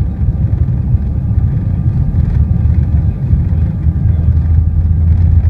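Airliner's engines heard from inside the cabin during takeoff: a loud, steady low rumble.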